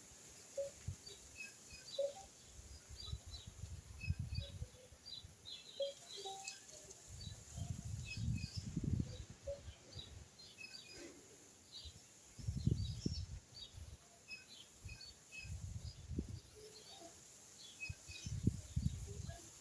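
Small birds chirping and calling, with many short high notes scattered throughout, over intermittent low rumbles that swell for a second or two at a time.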